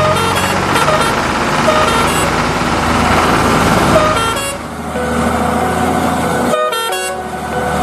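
A vehicle engine running steadily, with several short horn toots over it.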